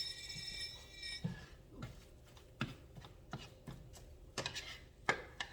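A clink's metallic ring dying away, then a string of light, irregular knocks and taps of a spatula against a frying pan as scrambled eggs are moved out of it.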